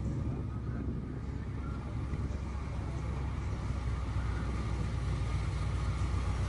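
A car engine running with a steady, deep low rumble that grows a little louder toward the end.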